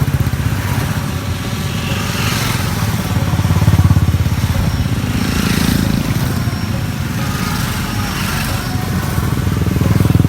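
A group of motorcycle engines running as bikes ride past, the sound swelling and fading several times as they pass.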